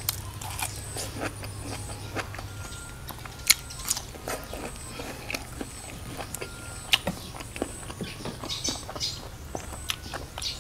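Close-miked chewing of a raw vegetable stalk, with many sharp crunches and wet mouth clicks at irregular intervals.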